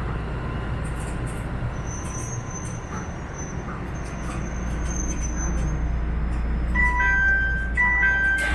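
Subway train rumbling steadily, then about seven seconds in a station's electronic chime melody of simple beeping tones starts playing.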